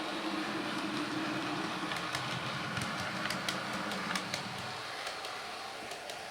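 Bachmann Derby Lightweight OO-gauge model diesel multiple unit running along the layout track with its sound switched off: a steady motor hum and wheel noise with a few light clicks, fading about five seconds in as it moves away.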